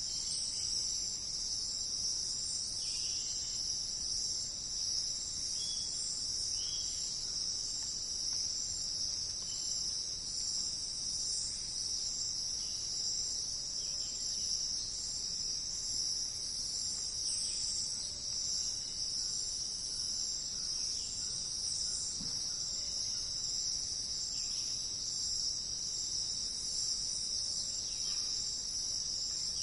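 Continuous high-pitched insect chorus, a steady unbroken drone, with faint short bird chirps now and then beneath it.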